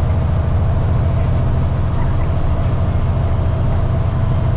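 Freightliner FLD truck's diesel engine running steadily at highway cruise, a low even drone heard from inside the cab.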